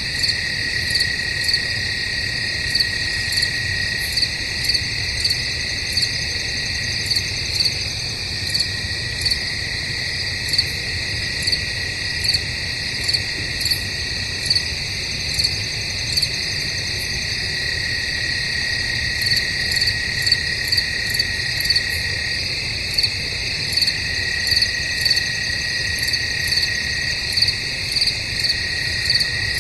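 Night chorus of crickets chirping in woods: a continuous high trill, with louder pulsed chirps repeating a little more often than once a second.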